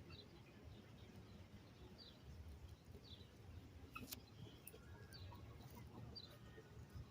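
Faint chirping of small birds: short, high, downward-sliding notes repeating every half second or so, over a low steady rumble. A single sharp click about four seconds in.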